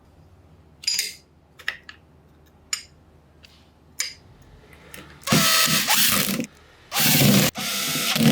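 Restored Hitachi PR-50 rotary hammer drill being test-run: a few clicks of handling, then the motor running in three short bursts, each with a steady whine.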